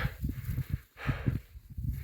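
A hiker's footsteps over rock: a run of irregular soft thumps.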